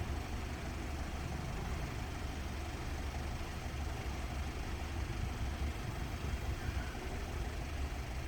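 Steady low rumble of idling motor vehicles.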